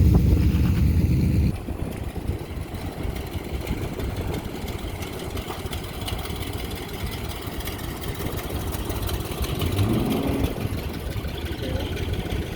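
Car engine running loud for about a second and a half, then dropping off sharply to a lower, steady engine rumble, with a brief rise and fall in pitch near the end.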